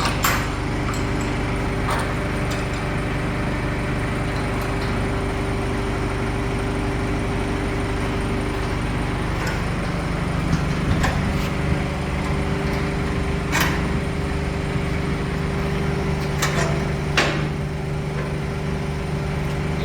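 A motor runs with a steady, even hum, while several short knocks and clanks sound at irregular moments: about a second apart near the start, then a few more spread through the middle and near the end.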